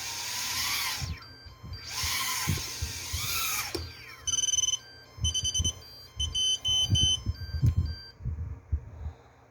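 A micro FPV whoop drone's tiny motors whining in two short bursts, their pitch gliding up and down, followed by a run of high electronic beeps in quick groups with a few low knocks.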